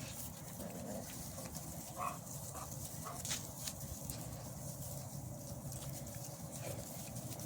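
Dogs playing with puppies: three short yips about two to three seconds in, with a few sharp clicks over a steady low background.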